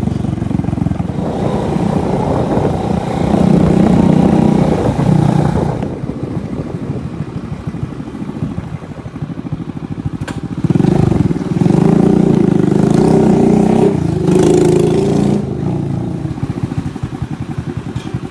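Motorbike engine running on the road, growing louder twice as the throttle opens, about three seconds in and again around eleven seconds, then easing off.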